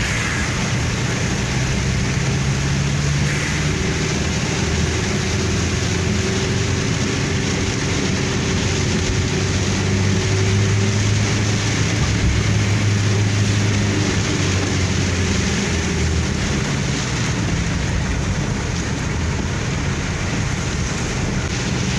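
A car driving on a wet road in heavy rain: steady engine hum under a constant wash of rain and tyre noise, with the engine note shifting a few times.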